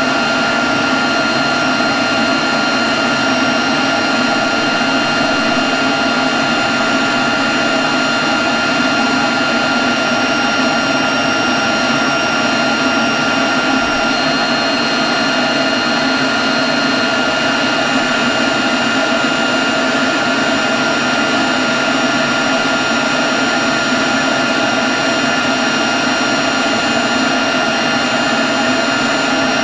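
Leaf blower running steadily at one constant speed: a loud rush of air with a fixed high whine over it.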